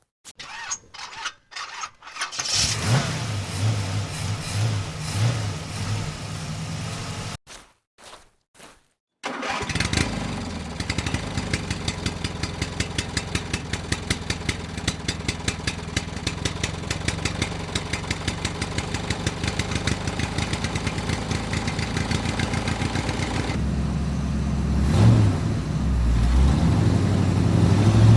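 An engine starts with a few clicks, runs briefly, stops, then starts again at about nine seconds. It keeps running steadily with a fast, even beat and picks up near the end.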